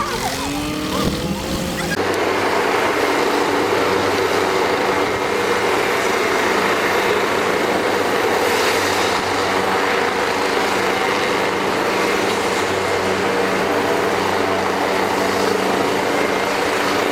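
A steady engine drone holding one pitch, setting in about two seconds in and running unchanged, with voices just before it.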